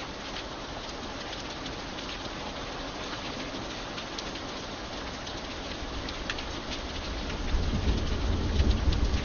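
Steady rain with individual drops ticking, and a low rumble of thunder that builds from about seven seconds in and becomes the loudest sound near the end.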